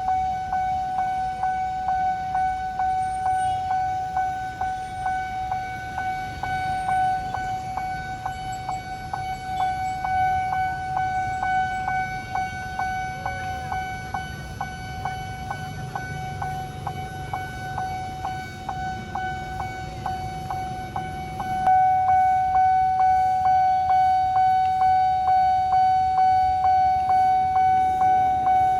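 Nippon Signal electronic railroad-crossing bell ringing a steady ding-ding, about two strikes a second, with a low rumble underneath. A little over two thirds of the way in the bell suddenly gets louder.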